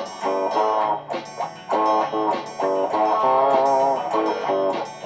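Layered guitar loop: repeating plucked guitar phrases over a low, steady bass line, with a wavering, bent note held about three seconds in.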